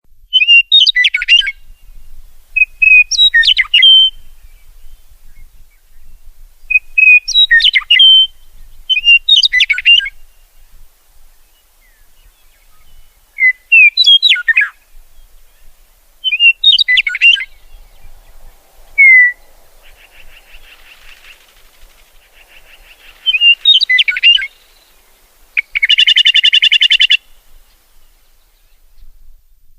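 Birds singing: short, high chirping song phrases repeated every two to three seconds. Softer rapid buzzy trills come about two-thirds of the way in, and a loud harsh buzzy call lasts about a second near the end.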